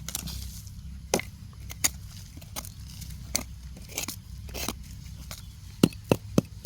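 Irregular sharp cracks and snaps of wood and debris being pulled apart and broken by hand, a dozen or so, with a quick run of the loudest ones about six seconds in.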